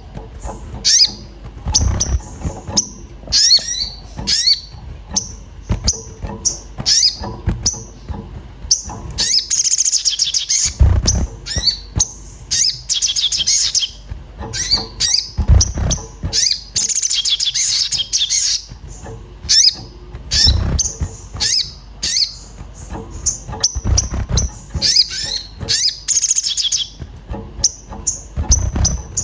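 A sogon (spiderhunter) giving rapid, sharp, agitated chirps and twittering calls, repeated throughout, with a few short dull thumps at intervals.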